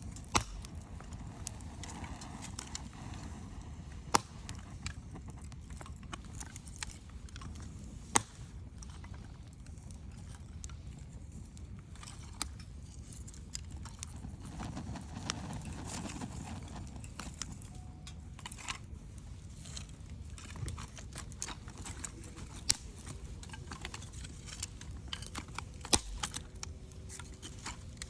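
Wood fire crackling: a steady low rumble of burning with scattered sharp pops and snaps at irregular moments, a handful of them much louder than the rest.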